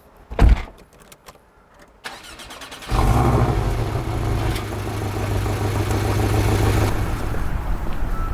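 Porsche 718 Boxster being started: a thump about half a second in, then the starter cranks for about a second. The engine catches with a loud flare at about three seconds and settles into a steady idle through the exhaust, easing slightly near the end.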